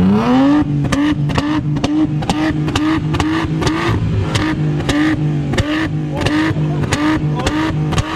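Car engine revved hard, its pitch rising quickly and then held at the rev limiter, bouncing off it with sharp crackles about three to four times a second.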